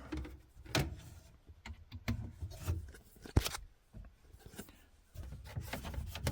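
Hands working plastic water-filter tubing and fittings: irregular clicks, knocks and rubbing, with one sharp click about three and a half seconds in.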